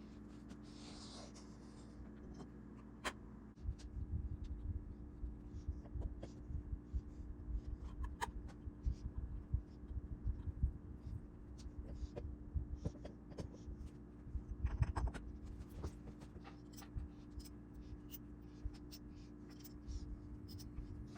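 Irregular light knocks and sharp clicks, like parts or tools being handled during work on a motorcycle, over a steady low hum. The knocks become frequent after the first few seconds.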